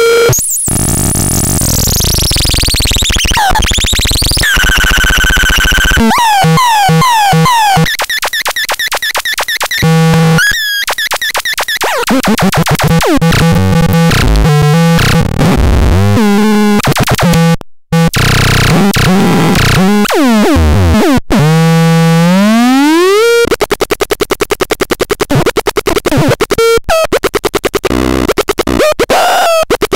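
Megastron Micro electronic sound generator playing harsh synthesizer tones: a pitch sweep that falls and rises again, held buzzing tones, fast repeating pulses and chirps, and a long rising glide, with a brief cut-out about two-thirds of the way through.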